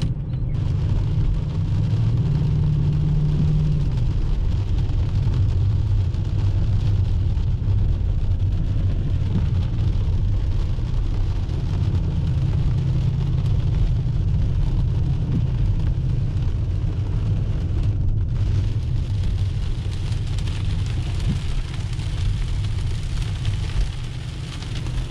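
V8 engine running steadily: a deep, low rumble that stays even in level.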